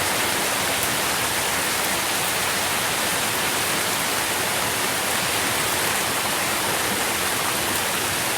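Steady rainfall, an even hiss of falling rain with faint scattered drop patter.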